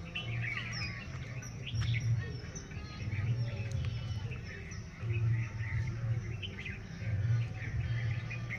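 Several birds chirping and calling, many short high chirps and whistles, over a low rumble that swells and fades about once a second.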